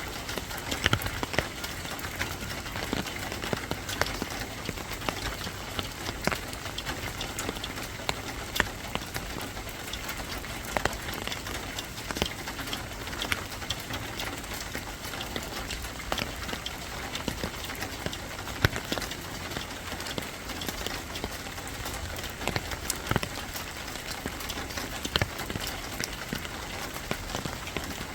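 Steady rain falling, with frequent sharp taps and clicks scattered irregularly through it.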